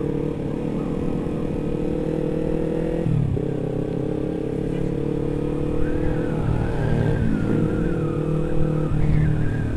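Yamaha MT-25 motorcycle's 250 cc parallel-twin engine running at steady riding revs, heard from the rider's seat, with a brief dip in revs about three seconds in.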